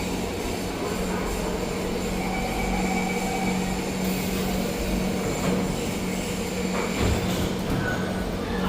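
Siemens C651 metro train running, heard from inside the carriage: a steady rumble of wheels on track with a constant low hum, and a brief knock about seven seconds in.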